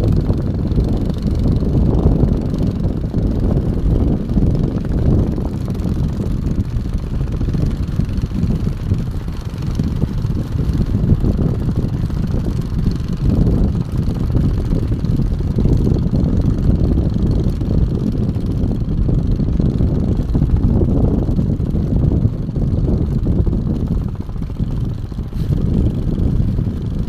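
Strong wind buffeting the microphone: a loud, uneven low rumble that swells and dips throughout.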